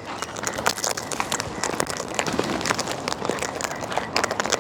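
Cockatoos foraging close to the microphone: a dense run of irregular small clicks and crackles from beaks pecking and cracking seed and nuts, with scuffling.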